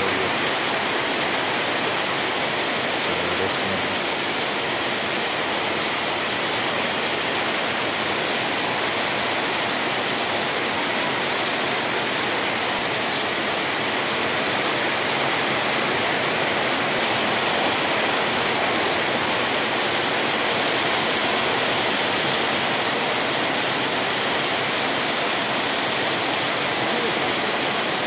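Heavy tropical downpour: a steady, even rush of rain hammering onto a paved yard and roofs, with water pouring off roof edges.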